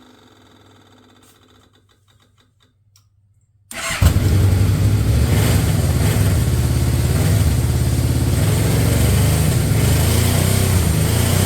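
Yamaha Royal Star Venture's 1300 cc V4 engine started on its new battery: quiet at first, then it catches suddenly about four seconds in and runs loud and steady.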